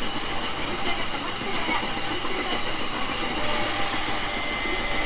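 Running sound of a JR East 701 series 5500-subseries electric train, heard from inside the car: a steady rumble of wheels on rail with a steady high whine and a few faint clicks.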